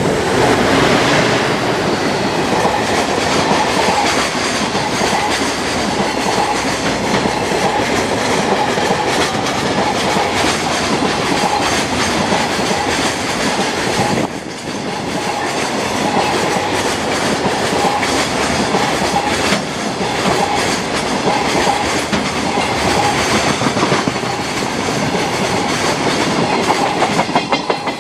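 Freight train led by an EF510 electric locomotive passing close by at speed, the long string of wagons rolling past with a continuous rail roar and a rhythmic clickety-clack of wheels over rail joints. It is loudest in the first second or two.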